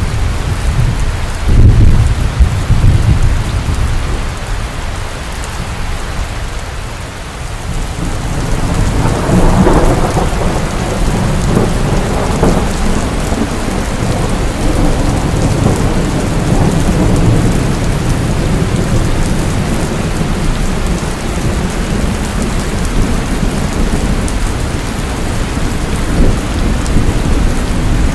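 Steady heavy rain, with thunder rolling in it: a loud low rumble about two seconds in, and a longer swelling roll around ten seconds in.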